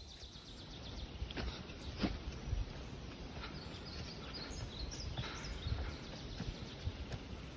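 Outdoor woodland ambience: scattered short bird chirps over a steady low rumble, with a few light knocks.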